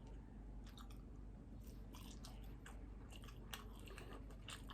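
A person chewing a mouthful of skinless longganisa close to the microphone: faint, irregular wet mouth clicks and smacks, coming more often in the second half.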